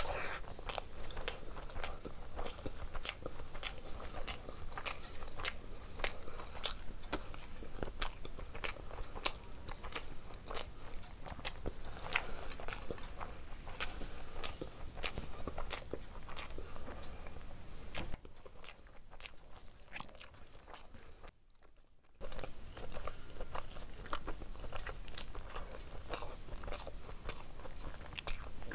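Close-miked chewing of egg curry and rice, with wet mouth clicks and smacks coming quickly one after another. The sound falls away for a few seconds about two-thirds of the way through, then the chewing picks up again.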